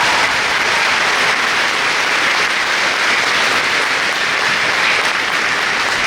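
Large crowd in a school auditorium applauding steadily, dense clapping that begins to fade just after the end.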